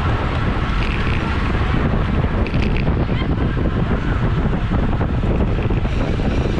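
Wind buffeting a bike-mounted camera microphone at race speed, a steady loud rushing.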